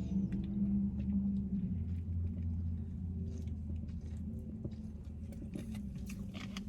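Someone chewing food, with faint scattered mouth clicks, over a steady low hum.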